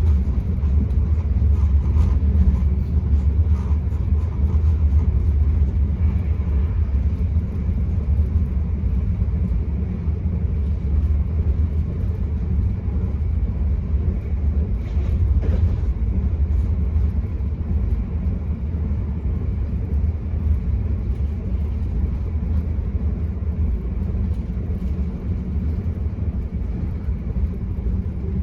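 Enterprise passenger train heard from inside the carriage while running along the line: a steady low rumble of wheels on track, with a faint rattle about halfway through.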